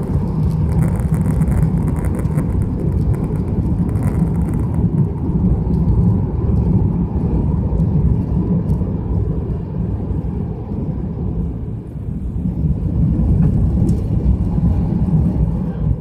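Airbus A330-200 heard from inside the cabin during takeoff: its Rolls-Royce Trent 772 turbofans and the airflow make a loud, steady low rumble that swells and eases slightly.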